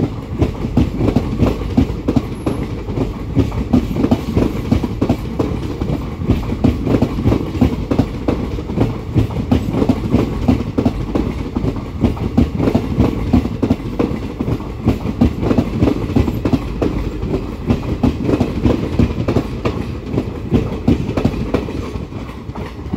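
Wheels of a long Indian Railways car-carrier parcel train passing close by, a steady clickety-clack as the wheelsets knock over the rail joints in an even rhythm. It eases slightly near the end as the last coach goes by.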